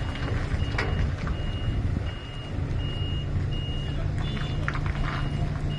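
A truck's reversing alarm beeping evenly, about once every 0.7 s, over its diesel engine running steadily, with a couple of short knocks.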